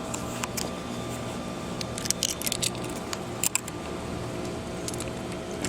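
Scattered light clicks and key jingles from the motorcycle's ignition key and switches being handled, over a steady low background hum; the engine is not running.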